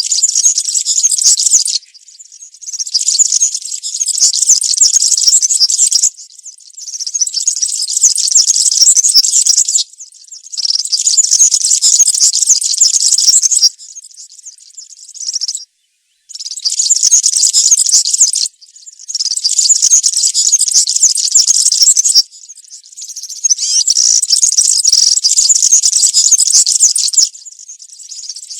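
European serin singing: its fast, high-pitched jingling song in phrases of about two to four seconds each, repeated with short pauses between them.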